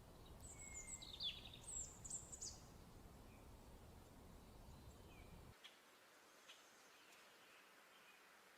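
Faint songbirds chirping: a quick cluster of sharp high chirps and trills in the first couple of seconds, then a few scattered softer chirps. A low background hiss under them cuts off suddenly about five and a half seconds in.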